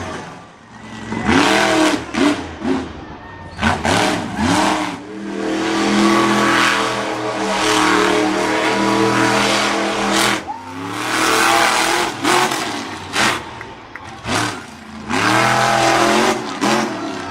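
Monster truck engine revving hard: a string of quick throttle blips, then held at high revs for about five seconds before dropping off around the middle, followed by more sharp blips near the end.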